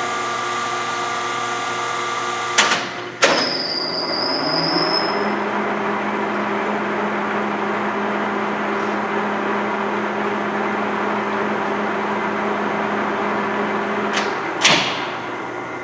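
LeBlond Regal engine lathe running with a steady gear whine from its headstock. About three seconds in there is a clunk as the spindle speed is shifted, and the whine rises to a new steady pitch. Near the end another clunk comes, and the machine begins to wind down.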